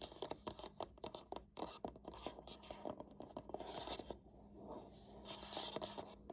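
Fingernails tapping and scratching on a keyboard's cardboard box: many quick, light clicks at first, then scratchy rustling about halfway through and again near the end.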